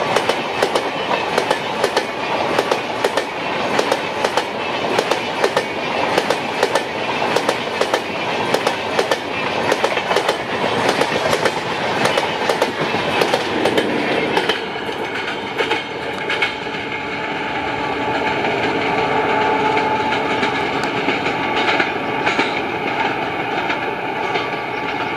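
Stainless-steel LHB passenger coaches of an express train passing close at speed, their wheels clicking rapidly and rhythmically over rail joints. About halfway through the sound abruptly changes to a steadier, more distant drone with a few held tones and only occasional clicks.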